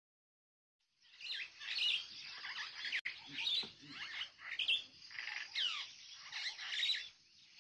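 Birds chirping, many short rising and falling calls over a faint steady hiss, beginning about a second in.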